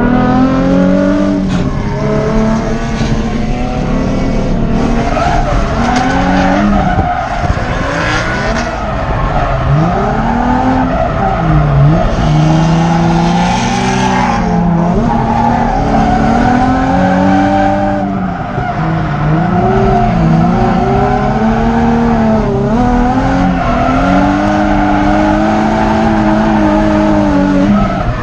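Drift car engine revving hard, its pitch climbing and dropping again and again as the car is driven sideways, with tyre squeal.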